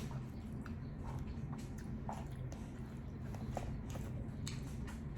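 A person chewing sushi close to the microphone, with scattered small wet mouth clicks over a steady low hum.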